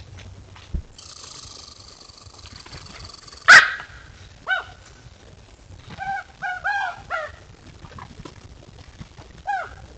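A series of short, high-pitched animal yelps. The loudest comes about three and a half seconds in, followed by a quick cluster of several more and a last one near the end.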